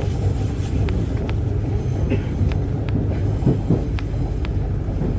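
Passenger train carriage running: a steady low rumble, with scattered light clicks and rattles.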